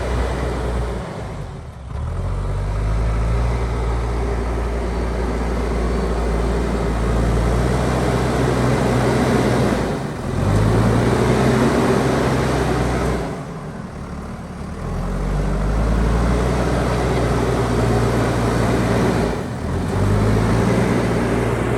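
JCB backhoe loader's diesel engine working hard, its revs dropping and climbing back up again several times as the machine takes and sheds load.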